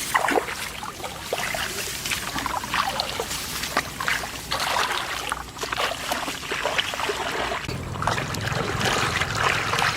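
Shallow water splashing and sloshing in short, irregular splashes, as of hands or feet working through flooded field water. A low steady hum comes in near the end.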